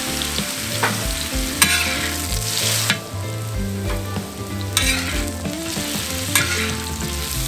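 Pineapple chunks sizzling and frying in hot ghee on a steel plow-disc discada, the sizzle loudest for the first three seconds. A wok spatula scrapes and stirs across the disc a few times.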